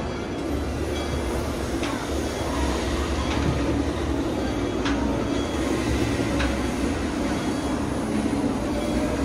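Narrow-gauge steam train rolling slowly, heard from an open passenger car: a steady rumble of wheels on the track with a light click at a rail joint about every second and a half.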